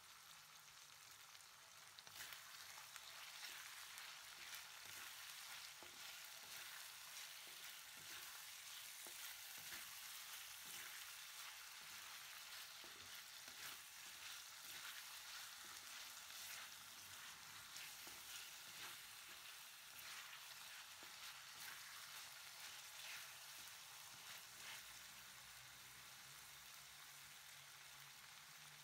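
Pork belly and shrimp paste sizzling quietly in a metal wok while being stirred. From about two seconds in, the stir adds repeated scrapes and clicks against the pan, which ease off near the end.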